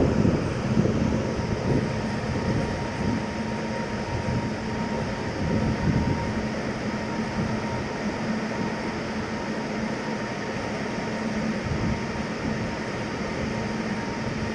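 Indian Railways train running: a steady rumble of wheels on the track, with a faint steady hum under it.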